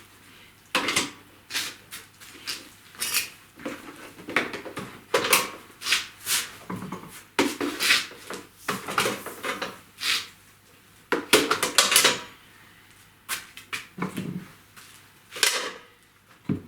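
Irregular metallic clinks, knocks and scrapes of bolts and tools being handled, about a dozen in quick succession, as worn old bolts on an office chair are swapped for new ones.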